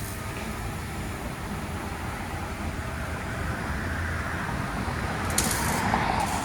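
Steady motor-vehicle noise, a rumble like an engine or passing traffic, swelling about four seconds in, with a short hiss near the end.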